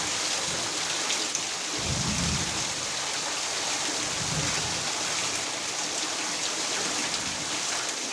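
Heavy rain falling steadily, a dense hiss of drops. Two brief low rumbles come through, about two seconds in and again just after four seconds.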